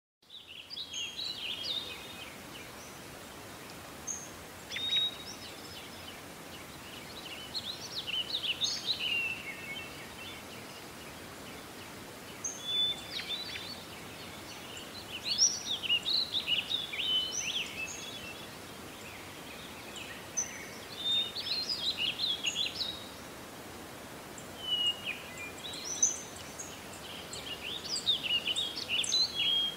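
Songbirds singing in short chirping, trilling phrases that come every few seconds, over a steady background hiss.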